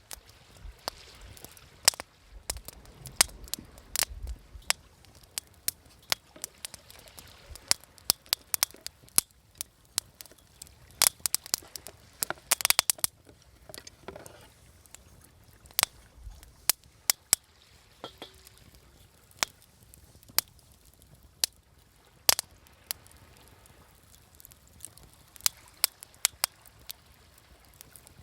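Wood campfire crackling, with sharp pops at irregular intervals and a quick run of them about twelve seconds in.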